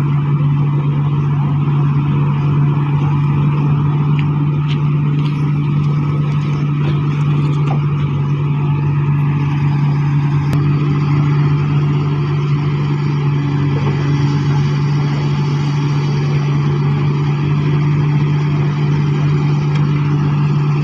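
Excavator-mounted vibro hammer and its engine running steadily: a loud, constant low drone with a noisy hiss above it that holds unchanged throughout.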